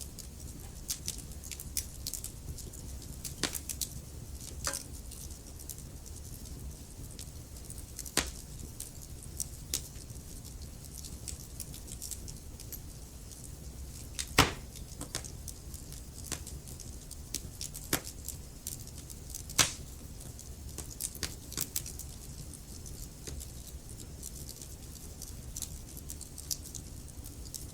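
Wood fire crackling, with irregular sharp pops and snaps over a low steady rumble of burning; two louder pops come a little past halfway and about three-quarters of the way through.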